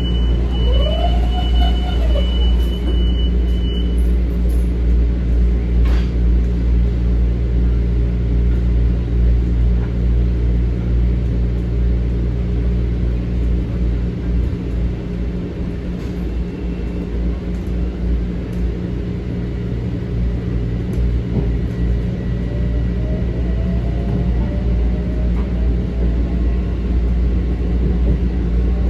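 Metro-North M7 electric train running between stations, heard from inside the car: a steady loud rumble with a constant low hum. A faint rising whine comes in during the last several seconds.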